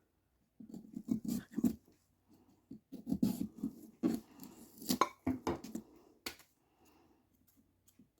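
Paper carving pattern being peeled off a pumpkin, crinkling and scratching in irregular bursts that stop about six seconds in.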